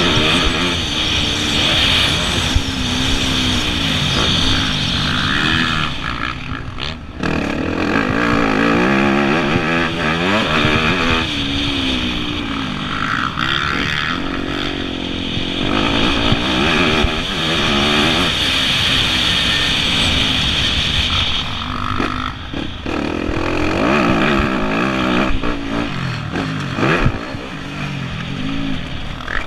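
Yamaha YZ250F four-stroke single-cylinder motocross bike ridden hard, its engine revving up and down through the gears with a few brief throttle chops, heard close up from the bike.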